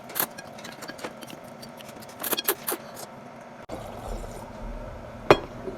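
Eating sounds: scattered clicks and clinks of utensils against a dish, a quick cluster of them about halfway through and one sharp click near the end. A low rumble comes in just after the middle.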